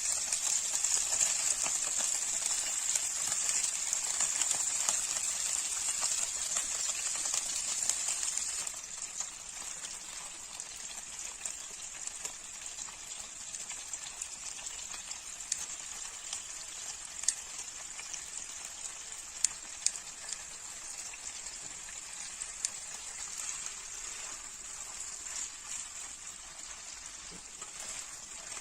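Food frying in hot oil: a steady sizzle with scattered crackling pops, which drops noticeably in level about nine seconds in.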